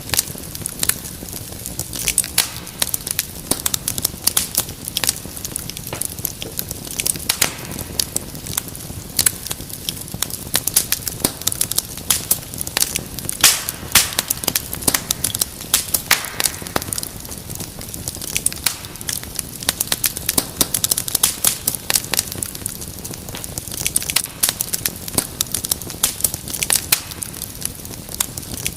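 Wood fire crackling in a fireplace: dense, irregular sharp pops and snaps over a low steady rush of the flames.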